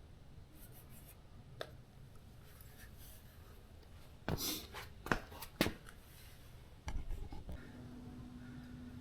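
Scraping and rubbing sounds from vinyl stripe work, with a short rushing scrape about four seconds in, two sharp clicks just after it, and a thump a little before seven seconds. A faint steady hum follows.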